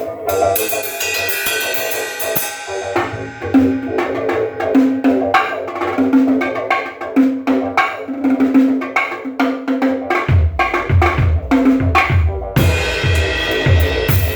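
A drum kit played in a loose jam. A cymbal wash opens it, then comes a pitched drum hit repeated about once a second among other strikes. Near the end, fast heavy bass-drum strokes and cymbals join in.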